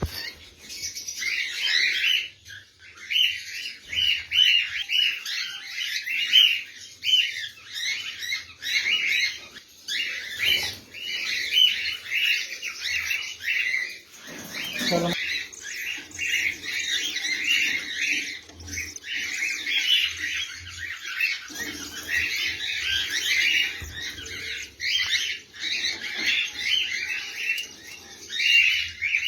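A flock of caged lovebirds chattering and chirping without a break: many shrill overlapping calls. About halfway through, a brief lower sound rises in pitch under the chirping.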